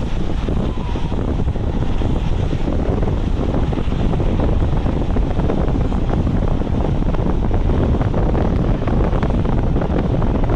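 Heavy wind buffeting the microphone over a steady low rumble from a passing intermodal freight train.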